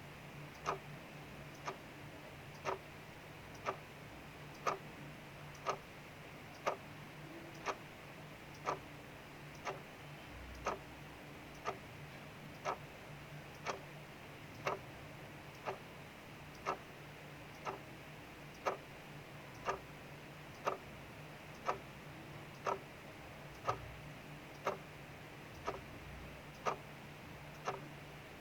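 Clock ticking steadily, about once a second, over a faint steady hiss of rain.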